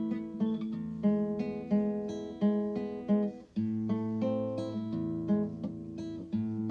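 Background music of acoustic guitar, plucked notes in a steady rhythm, with a brief break about three and a half seconds in.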